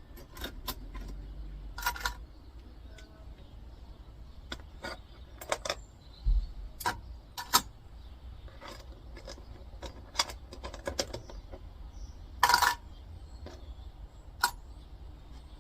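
Small salvaged brass pieces clinking against each other as they are gathered and put on a scale for weighing: scattered sharp metallic clicks, with one louder clink near the end.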